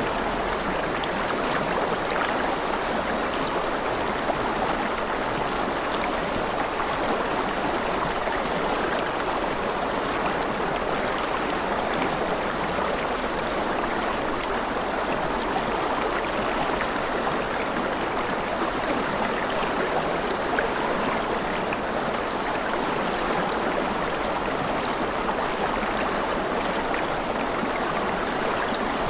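Rushing river water running steadily, an even wash of flowing-water noise with no breaks.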